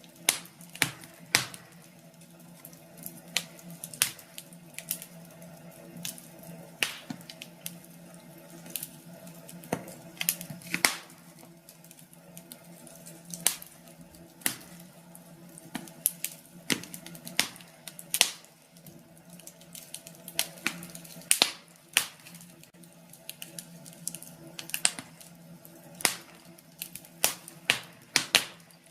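Wood fire crackling in a fireplace: irregular sharp pops and snaps, several close together at times, over a faint steady hum.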